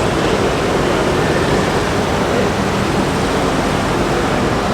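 A vehicle engine running steadily at low speed, a constant low hum under a steady rushing noise.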